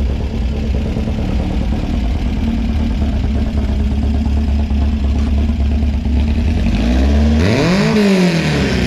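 A car engine idling loudly, blipped once near the end: the pitch climbs over about half a second and falls back to idle.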